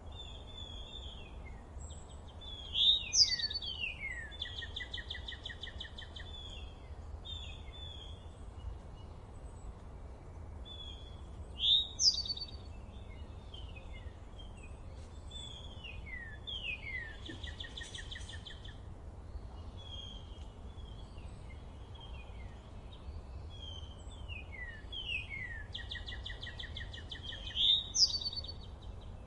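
Songbirds singing in a forest. One bird's loud song phrase, falling slurred notes then a rapid trill, comes three times. Fainter chirps from other birds run throughout over a steady low rumble.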